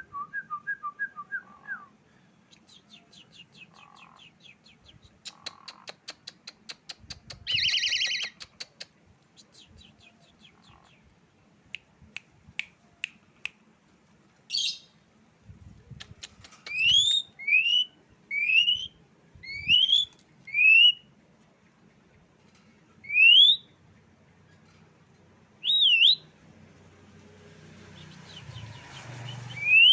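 Asian pied starling singing a varied song: rapid clicking rattles and short chatters, a harsh burst about eight seconds in, then a run of loud rising whistles repeated through the second half.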